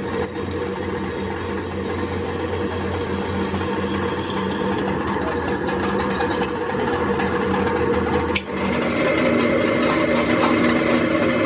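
An electric power tool's motor runs steadily. About eight seconds in, its pitch changes after a brief dip.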